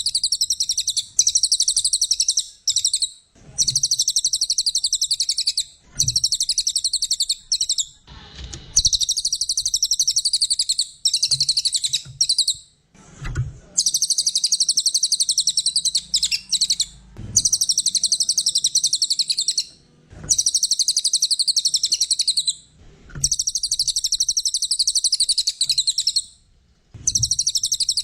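A brown cililin songbird singing a fast, high, trilling song in repeated phrases of about two to three seconds, each broken off by a short pause.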